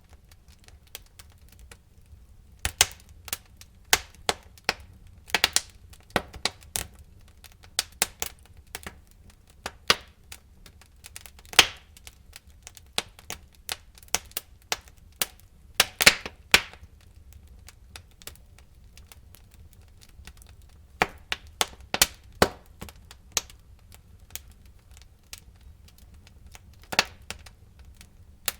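Wood fire in a fireplace crackling: irregular sharp pops and cracks from the burning logs, a few loud snaps among many smaller ones, over a faint low rumble.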